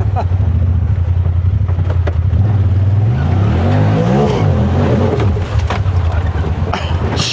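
Side-by-side UTV engine running loud and steady under load, revving up and back down several times about three to five seconds in as the machine works at a steep, slippery creek-bank climb.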